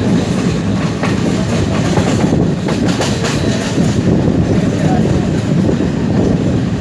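Moving passenger train: a steady rumble of wheels on the track, with clickety-clack as the wheels pass over rail joints.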